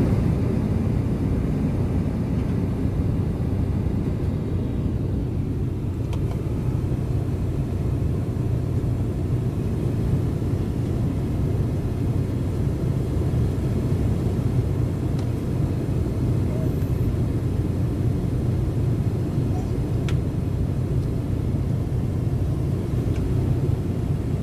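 Steady low rumble of an airliner's engines and airflow heard inside the passenger cabin, even and unchanging, with a couple of faint clicks.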